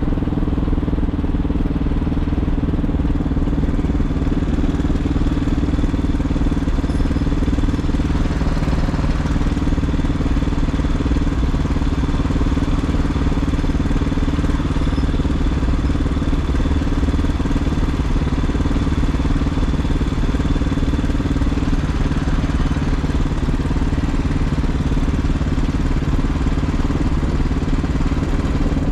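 Regulmoto TE enduro motorcycle engine running steadily, with no revving.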